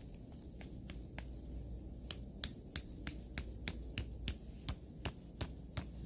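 A run of sharp clicks, a few scattered at first, then about three a second, over a low steady hum.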